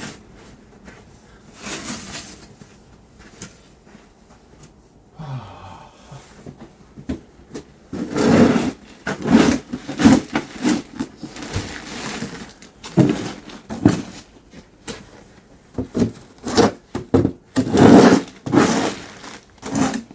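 Snow shovel scraping and pushing snow in a series of irregular strokes, quieter at first and louder and more frequent from about eight seconds in.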